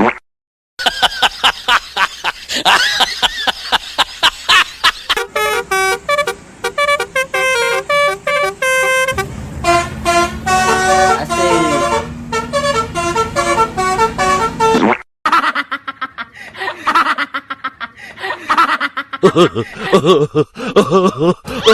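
Indonesian 'telolet' bus horns, the Basuri multi-note musical horn, tooting short melodies note by note. The tunes come in edited-together runs, broken by two brief silent cuts, just after the start and about fifteen seconds in.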